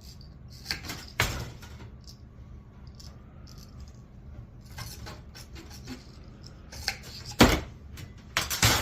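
Sheet metal being notched with hand snips: scattered sharp metallic snips and clanks, the loudest about seven and a half seconds in and again near the end, over a low steady hum.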